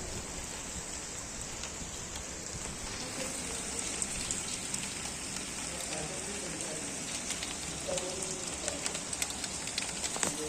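Heavy rain falling steadily, a dense hiss with many small drop clicks scattered through it.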